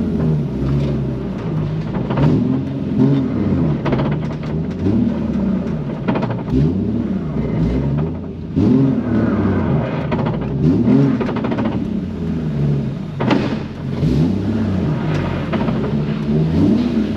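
Nissan 350Z's 3.5-litre V6 revving up and falling back over and over as the car is driven hard, with a couple of sharp knocks along the way.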